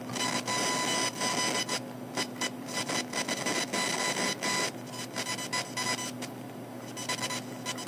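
Computer speakers giving off electrical noise that follows the mouse movement: an uneven run of buzzing, crackling bursts over a steady whine and a low hum, with short beeps as the mouse changes direction. This is typical of electrical interference from the computer leaking into the speakers.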